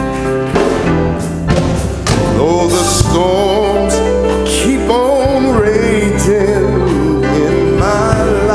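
Live gospel music: a solo voice singing long, sliding runs with vibrato over band accompaniment with steady bass and regular drum hits. The voice comes in about two seconds in, after a short instrumental stretch.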